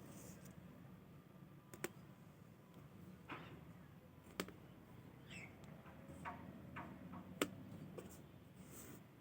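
Fingernails pinching and crushing head lice: three sharp clicks spread a few seconds apart, with softer crackles between them.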